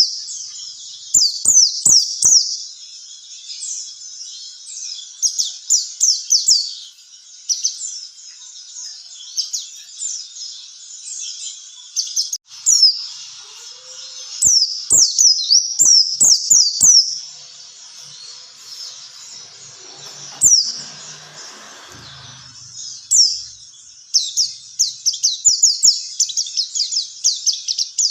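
White-eye (pleci) song: fast runs of thin, high chirping notes in repeated phrases, getting denser and quicker near the end, with a few sharp clicks in between.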